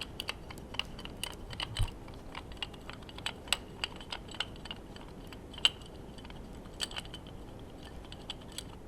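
Quick, irregular small clicks and light taps, several a second, like small tools and metal parts being handled during engine disassembly; they stop shortly before the end.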